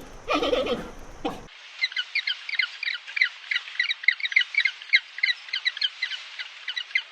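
A pitched animal call, like a bleat, sounds twice in the first second, then cuts off. Small birds or chicks then chirp in short, high, rapid notes, several a second and unevenly spaced.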